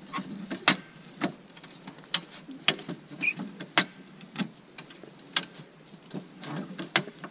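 Irregular sharp clicks, knocks and creaks, about one or two a second: an off-road vehicle rattling as it works over rough ground.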